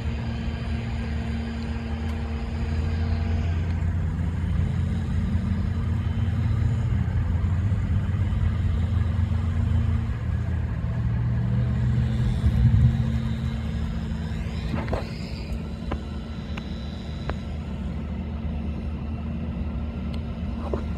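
Car engine running, heard from inside the cabin as a steady low hum that shifts pitch a couple of times. A few small clicks come later.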